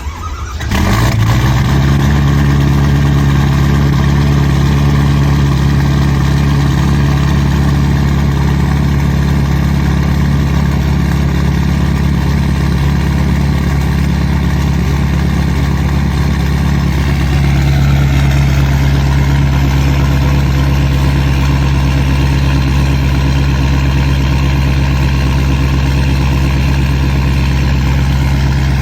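Ford Power Stroke diesel with a straight-piped exhaust, cold-started: it fires about a second in, catches at once and settles into a loud, steady idle. The idle drops slightly a little past halfway through.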